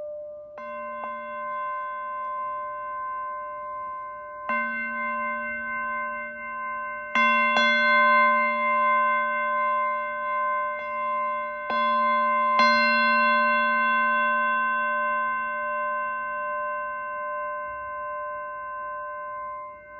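Singing bowls struck about seven times, their several pure tones ringing on and overlapping. The tones waver slightly as they slowly fade. The loudest strikes come about a third and two thirds of the way through.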